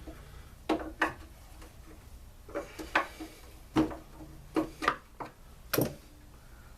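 Hand tools clicking and knocking on a stuck bolt during engine teardown: about nine sharp, irregular metallic clicks, several in quick pairs, as a wrench works the fastener.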